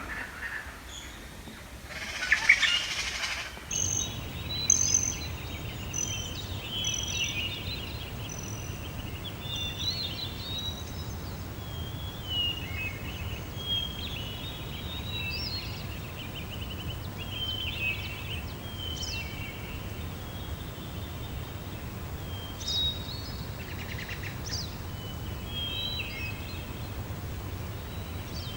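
Songbirds chirping and trilling in many short overlapping calls over a steady low rumble, with one loud, harsh burst of noise about two seconds in.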